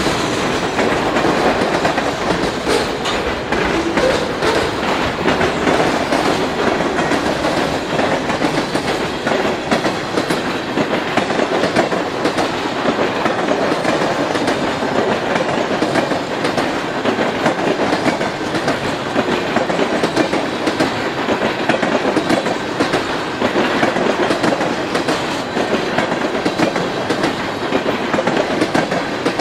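Freight cars rolling past close by: steel wheels clicking over the rail joints in a steady clickety-clack over a continuous rattling rumble.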